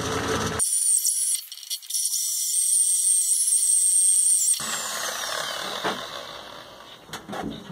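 Power tool running with a high, wavering whine, then winding down with a falling pitch about halfway through, followed by a few sharp clicks near the end.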